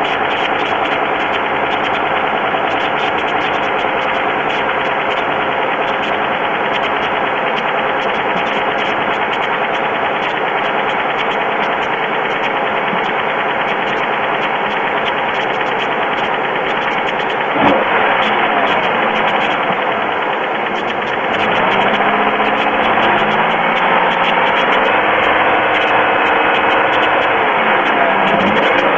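GM 3.4L V6 engine of a 2002 Pontiac Grand Am running with a fast, steady ticking knock, which the owner wonders is piston slap; there is plenty of oil in the engine. About three quarters of the way through the engine note changes and gets louder, with its pitch shifting.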